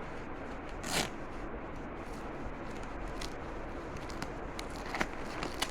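Handling noise from a small fabric kit pouch and its contents: a short rustle or zip about a second in, then a few light clicks and scrapes near the end.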